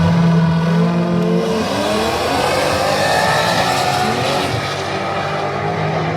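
Classic muscle car's engine revving loudly and accelerating, its pitch climbing through the middle of the run.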